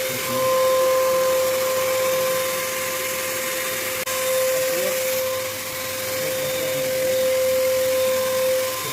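Electric paint sprayer running steadily, a constant whine over a hiss of spray, spraying black matte paint onto a ceiling; the sound breaks off for an instant about four seconds in.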